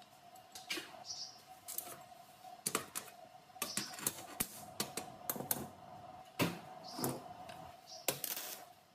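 Irregular clicks and light knocks, several a second at times, over a steady faint hum.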